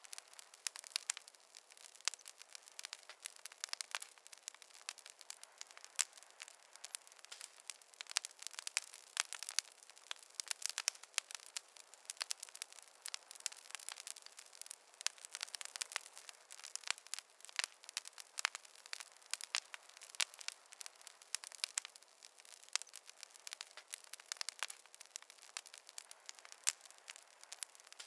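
Campfire crackling, a steady dense run of small irregular snaps and pops.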